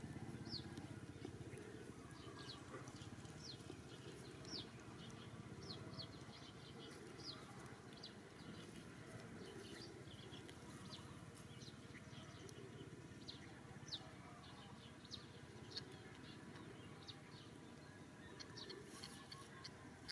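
Faint, short, high chirps of small birds, scattered irregularly about once a second over a low, steady background hum.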